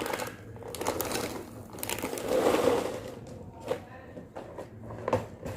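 Rattling and clicking of dry Koko Krunch cereal against a bowl, with a louder rushing stretch about two seconds in.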